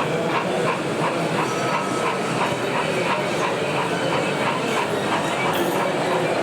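Sound-fitted model steam locomotive chuffing steadily, about four beats a second, over the steady hubbub of an exhibition hall.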